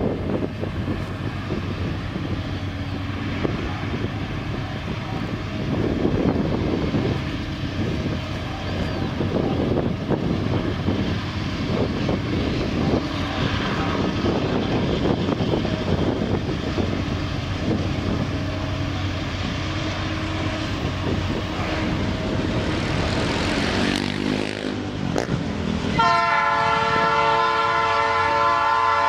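Diesel freight locomotives rumbling steadily as they pull a long string of grain hopper cars past. Near the end the lead locomotive sounds its air horn, a loud held chord of several notes.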